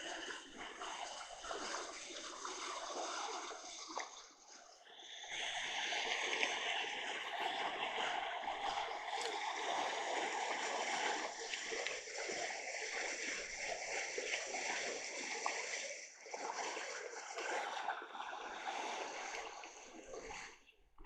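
Rushing water, a steady splashing flow that eases briefly about four seconds in and cuts off near the end.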